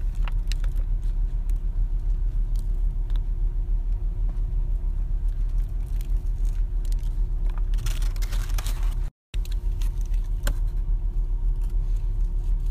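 Steady low rumble and hum of a car's idling engine heard inside the cabin, with faint clicks of chewing and the paper burger wrapper crinkling, a louder rustle about eight seconds in. The sound drops out briefly just after nine seconds.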